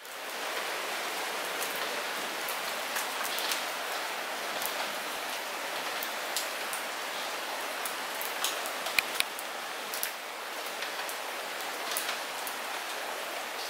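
Light rain falling steadily, an even hiss with many individual drops pattering and ticking close by, a few louder drop hits about nine seconds in.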